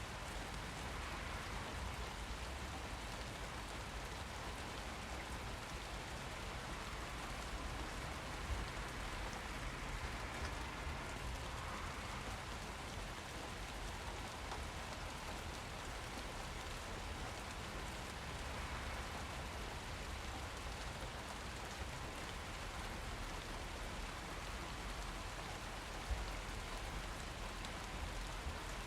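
Steady rain falling, an even hiss with a few individual drops ticking out a little louder, once about a third of the way in and again near the end.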